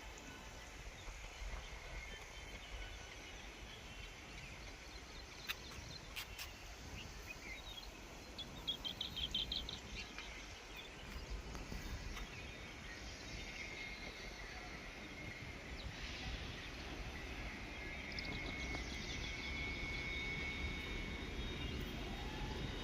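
Outdoor ambience after rain: a steady background hiss with a brief burst of bird chirps about nine seconds in and high insect-like trills later on.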